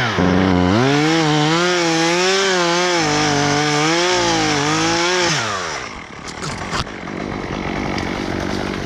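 Two-stroke chainsaw running at high revs, its pitch dipping and rising as it is throttled and cutting wood. About five seconds in the revs drop away to a low idle, with a few light clicks.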